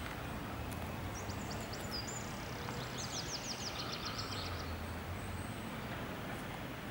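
A songbird singing: a few scattered high chirps, then a quick run of about a dozen falling notes, roughly seven a second, over a steady background rumble with a low hum.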